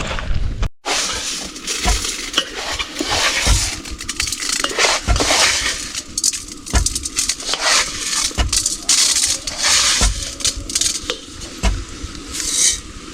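Metal pot and utensils clinking and scraping, with a scratchy hiss and a dull knock about every second and a half.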